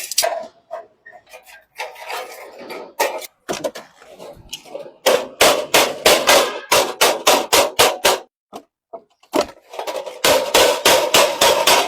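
Hand hammer striking hot metal on an anvil, forging: scattered knocks at first, then a steady run of about three to four blows a second from about halfway, a short pause, and a faster run near the end.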